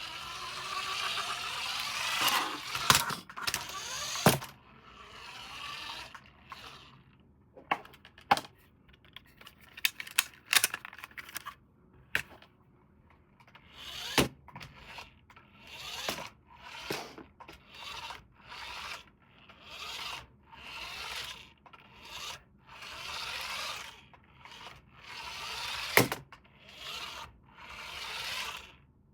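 Hands handling packaging and plastic toy parts: rustling and scraping with sharp clicks, then a run of short repeated rubbing strokes about once a second, with one loud click near the end.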